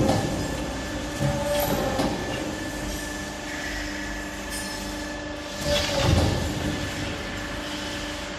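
Four-axis CNC pipe bending machine running: a steady hum with several held tones, broken by louder mechanical surges at the start, just after a second in and around six seconds in as it works the pipe.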